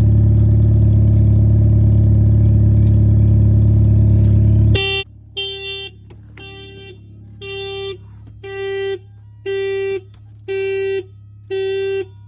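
A car engine running steadily cuts off about five seconds in. Then an electronic warning beep from the car starts repeating about once a second, a loud pitched tone, each beep roughly half a second long.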